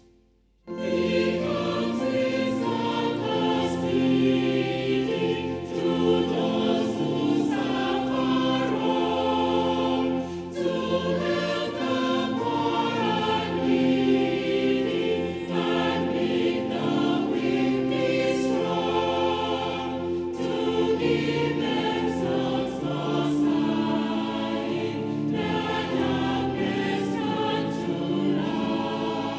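Choir singing a hymn in full harmony, beginning about half a second in.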